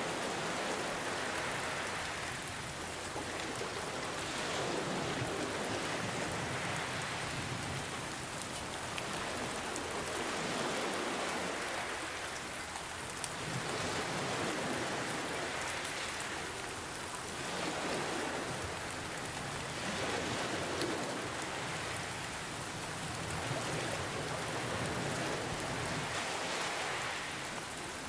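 Steady rain hiss with ocean waves swelling and washing in, a slow surge every three to four seconds.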